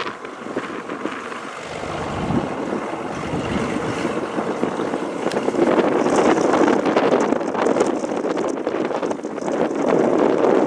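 Strong gusty wind buffeting the microphone: a rough rushing roar that swells, getting louder about six seconds in.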